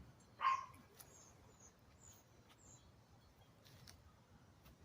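Faint, high bird chirps repeating in a quiet garden, with one louder short chirp about half a second in and a few light clicks.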